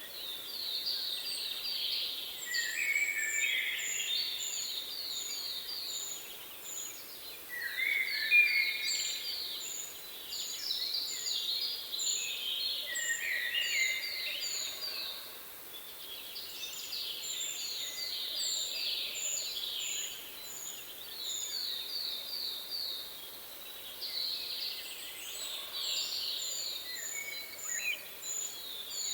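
Several songbirds singing together. One bird repeats a very high, thin short note about twice a second, while others sing quick runs of short sliding chirps in phrases a few seconds long.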